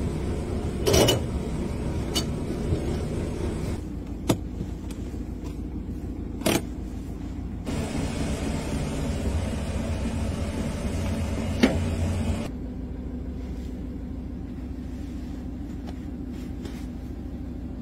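Vehicle engine idling, heard from inside the cabin, with several sharp clicks and clunks as the gear and transfer levers are moved. The engine sound changes abruptly twice.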